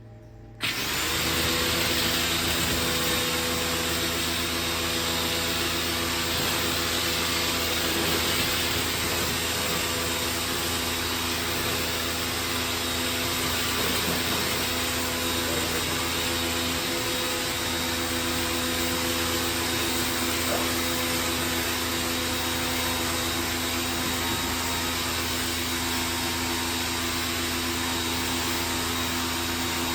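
A motor-driven machine switches on about half a second in and runs steadily, a hum with a thin whine over a rushing hiss.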